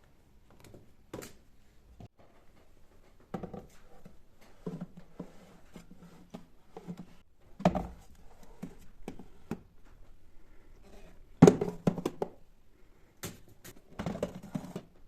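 Household items being handled and set down: a string of irregular knocks and clatters with light handling noise between them, the loudest knock about eleven and a half seconds in.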